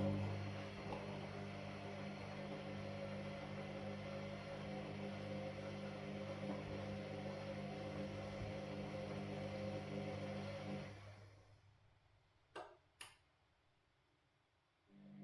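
Washing machine motor humming steadily as the drum turns, then winding down about eleven seconds in. Two short clicks follow in the pause, and the motor starts up again right at the end: the start-stop tumbling of a wash cycle.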